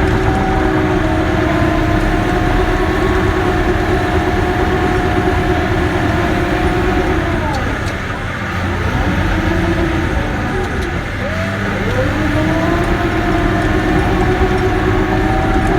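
Cat D6K crawler dozer's diesel engine and drive running steadily under work. Its whining pitch slides down about eight seconds in, then climbs back up about three seconds later.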